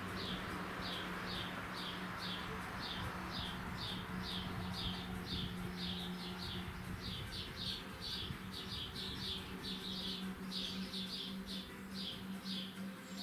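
A bird chirping over and over, short falling chirps at about three a second without a break, over a steady low hum.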